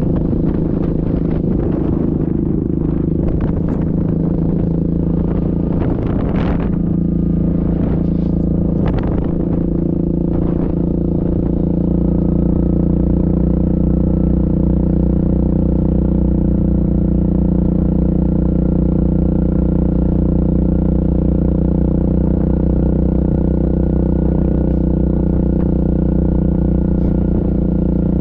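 Yamaha Grizzly ATV's single-cylinder engine running steadily under way, with scattered clatter and knocks over the first ten seconds or so. From about twelve seconds in it runs a little louder and steadier, its pitch creeping slowly upward.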